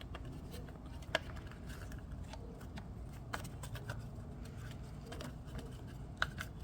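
Scattered light clicks and taps as a dirt bike's frame guard is lined up and fitted and a short bolt is started by hand, the sharpest click about a second in and another near the end.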